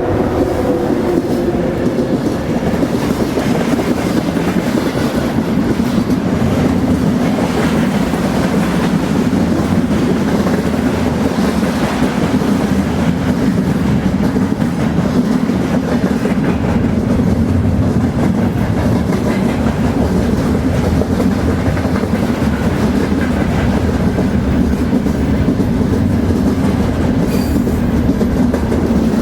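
Train rolling along the track: a loud, steady rumble and rattle of wheels on rail with clickety-clack.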